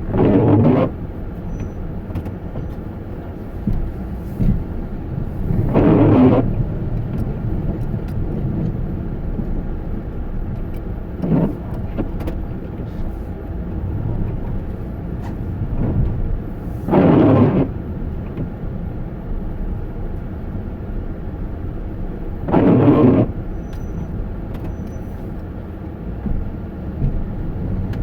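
Steady low vehicle rumble, with a brief louder burst of noise about a second long recurring regularly, roughly every five to six seconds.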